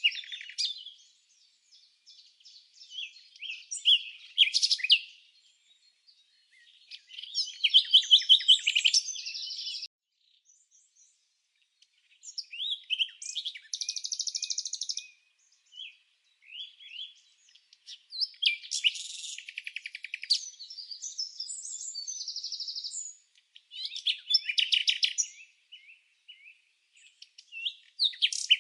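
Songbird singing: phrases of quick, high chirps and rapid trills, each lasting one to a few seconds, with short pauses between them.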